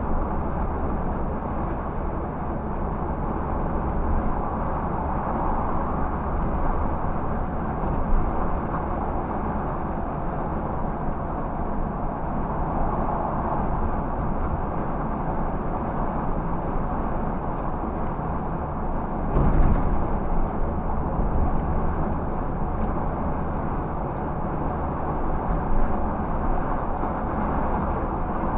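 Scania 360 truck running steadily on the road, a low engine drone under even road noise. There is a brief louder thump about two-thirds of the way through.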